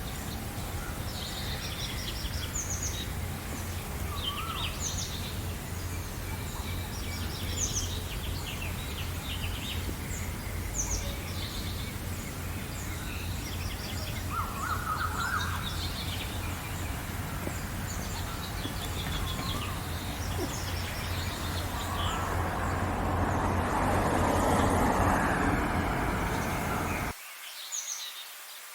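Outdoor chorus of songbirds chirping and trilling over a steady low rumble of background noise. Late on, a louder rushing noise swells up, then everything cuts off abruptly about a second before the end, leaving only fainter high chirps.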